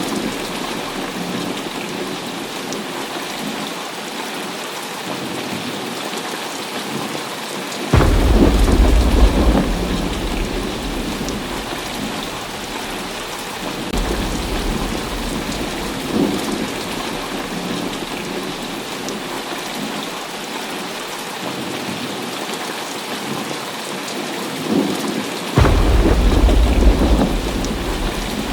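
Heavy rain falling steadily, with thunder: a loud clap about eight seconds in that rumbles on for a couple of seconds, a fainter rumble around fourteen seconds, and another loud clap near the end.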